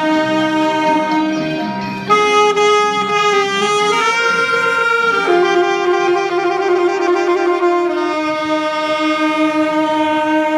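Saxophone playing a slow melody of long held notes over a soft accompaniment, changing note a few times and closing on a long held note.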